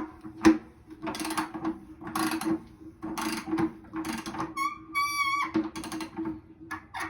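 A ratchet and 1.5-inch socket clicking in repeated strokes, about one a second, as a new electric water heater heating element is tightened into the tank, over a steady low hum. A brief high whistling tone sounds near the middle.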